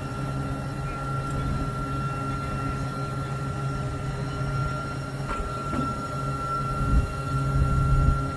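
A vehicle engine running steadily, with a constant low drone under a steady high whine. There is a short loud knock about seven seconds in.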